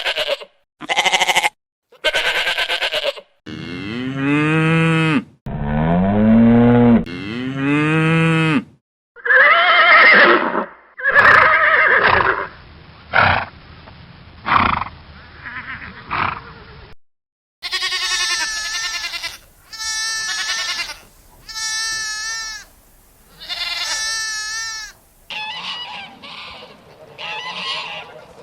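Farm livestock calling in a series of spliced recordings, one animal after another: several short high calls, then long, low, arching calls, then runs of higher repeated calls.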